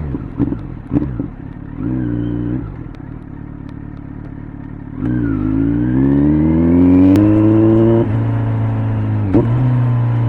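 Kawasaki Z900's inline-four through an LCI aftermarket muffler, ridden on a twisty road: a few short throttle blips, a stretch of light, quieter running, then about halfway the throttle opens and the revs rise for a couple of seconds before a quick upshift, with another brief throttle blip near the end.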